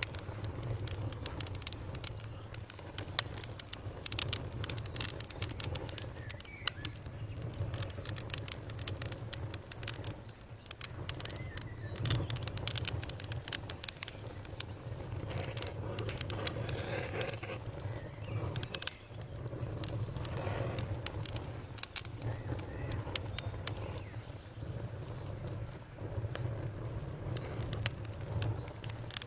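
Wood fire crackling with frequent sharp pops and snaps over a steady low rumble, with birds calling softly in the background, including dove-like cooing.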